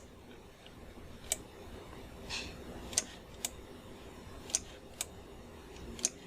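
Sharp, separate clicks from a computer's input controls, about six spread unevenly, with a softer brief rustle about two and a half seconds in, over a faint room hum.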